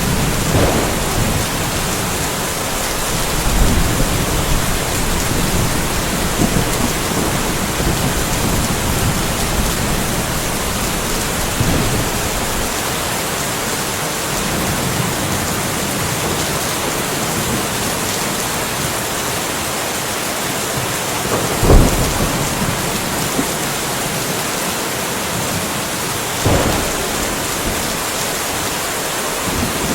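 Steady rain hissing with thunder rumbling low in the background. A sharp thunderclap comes about two-thirds of the way through, and a smaller crack follows a few seconds later.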